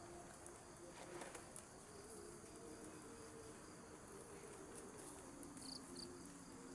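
Faint forest ambience with insects calling steadily, a few wavering low tones held through it and two short high chirps near the end.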